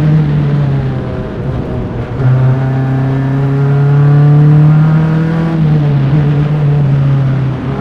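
Single-seater race car's engine heard up close at racing speed. It eases off briefly about two seconds in, then pulls steadily with a slowly rising pitch, and eases again near the end.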